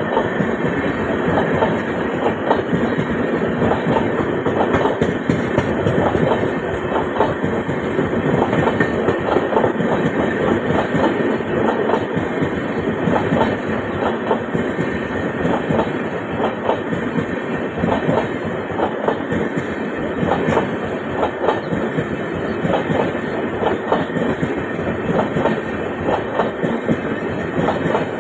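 Train running through a station without stopping, its wheels clattering steadily over the rail joints.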